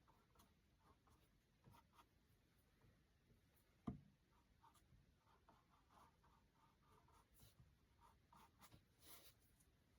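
Very faint paintbrush strokes scratching and dabbing as acrylic paint is blended, with a single light knock about four seconds in.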